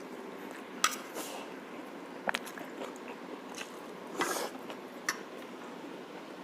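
Close-up eating sounds of a person biting and chewing braised pork shank, with a few sharp clicks scattered through and a short wet burst a little past the middle.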